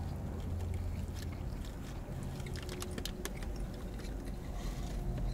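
A man chewing a mouthful of brisket and egg taco, with soft scattered clicks of chewing over a low steady hum inside a car.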